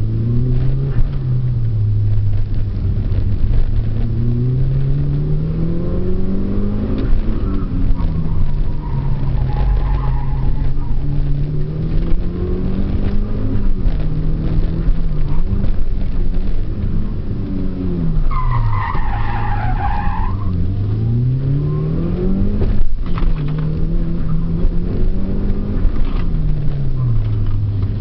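Mitsubishi Lancer Evolution IV's turbocharged 2.0-litre inline-four at racing pace on a circuit, its pitch climbing and dropping back again and again through gear changes and braking. The tyres squeal for a couple of seconds past the middle.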